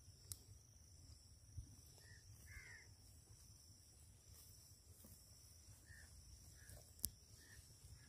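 Near silence, with a few faint, short bird calls now and then and a sharp click about seven seconds in.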